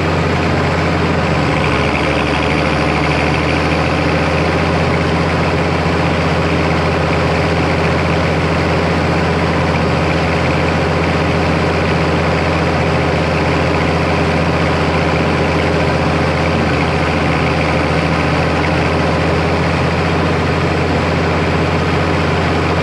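International Harvester 1086 tractor's turbo diesel engine running steadily while bush hogging with a rotary cutter; it cuts off suddenly at the end.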